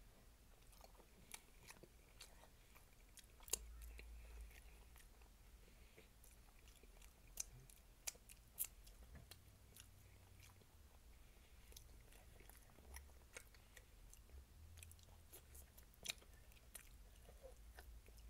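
Faint close-up chewing and lip-smacking of a person eating braised oxtails by hand, with scattered sharp, wet mouth clicks; the sharpest comes about three and a half seconds in.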